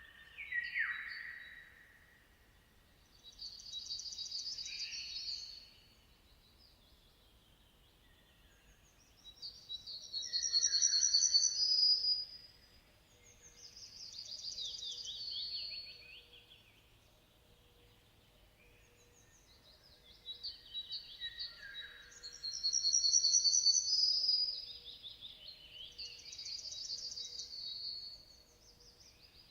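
Songbirds singing: bursts of high, trilled and sliding song phrases a few seconds long, with short quiet pauses between them.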